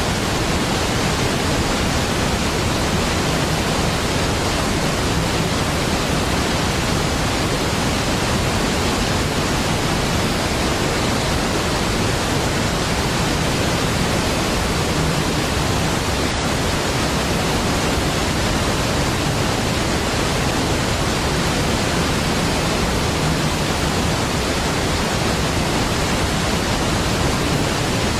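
A large waterfall's water falling and crashing in one steady, deep, even rush with no breaks or changes.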